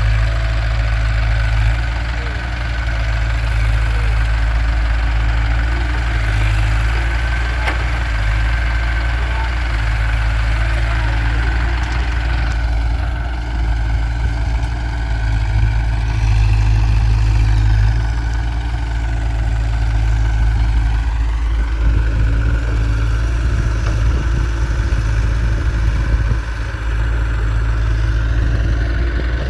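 Heavy diesel machinery engine running steadily near idle, with a deep low rumble throughout.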